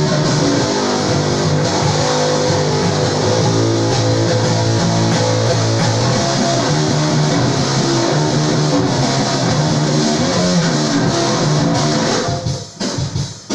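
Loud band music built on plucked electric guitar and bass, which breaks off about twelve seconds in and gives way to a few short, separate sounds.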